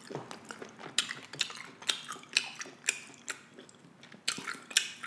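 Close-miked chewing of a bite of beef kielbasa sausage: irregular wet mouth clicks and smacks, about two a second.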